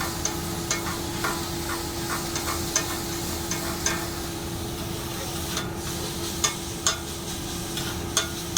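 Thin-sliced eye of round steak sizzling on a hot griddle as it sears, with a metal spatula clicking and scraping against the griddle every second or so.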